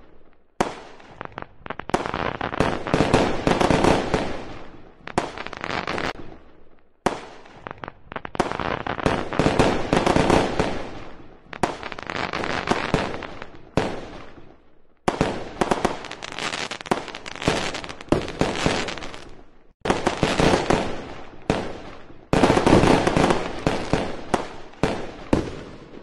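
Aerial fireworks display: a dense run of shell bursts, bangs and crackle, in several stretches that start and stop abruptly.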